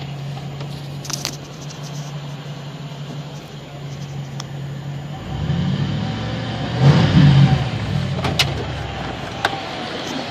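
1995 Ford Bronco's 351 Windsor (5.8 L) V8 idling through a Gibson muffler and 3.5-inch exhaust tip, heard from inside the cab. About five seconds in the engine is revved twice, the second rev the louder, then settles back to idle. A few light clicks are heard.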